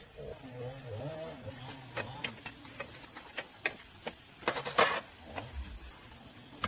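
Irregular sharp clicks and knocks, with a louder cluster about five seconds in, over a steady high-pitched whine. A faint wavering voice-like sound comes in the first two seconds.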